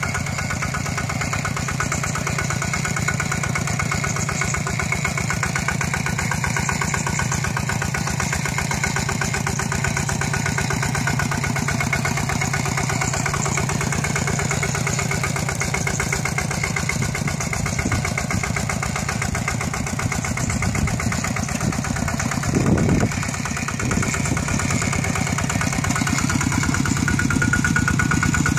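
Single-cylinder diesel engine of a two-wheel walking tractor running steadily with a fast, even chug. A short louder thump comes about two-thirds of the way through, and the engine gets slightly louder near the end.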